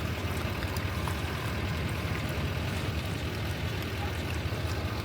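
Vehicle engine idling steadily with a low rumble, a few faint ticks over it.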